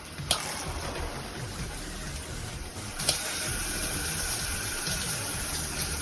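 Water spraying from a handheld shower head, a steady hiss. A click about a third of a second in starts the spray, and another click about three seconds in switches the spray pattern, after which the hiss is louder and brighter.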